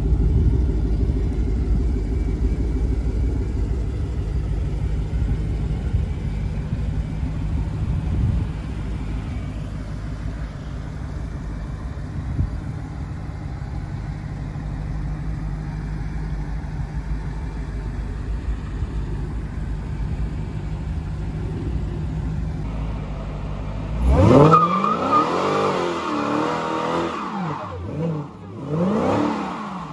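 2016 Dodge Challenger Hellcat's supercharged 6.2-litre Hemi V8 idling with a steady low rumble. Near the end it suddenly revs hard for a burnout, its pitch rising and falling twice over the noise of the spinning tyres.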